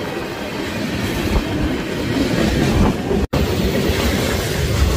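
Norfolk Southern freight cars rolling past at close range: steel wheels rumbling and clacking steadily over the rail. The sound drops out for an instant about three seconds in, then carries on with a heavier low rumble.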